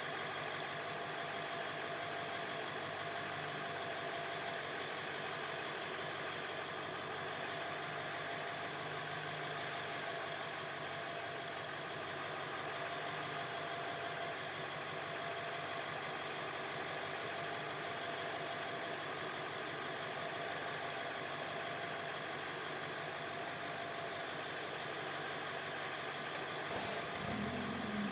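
Truck engine idling steadily during a jump start. A deeper, steady engine note comes in near the end.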